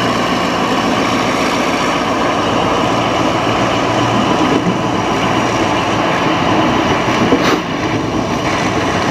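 Diesel locomotive hauling a passenger train running past close by: its engine drone gives way after about five seconds to the rumble and clatter of the coaches' wheels on the rails, with a single sharp knock near the end.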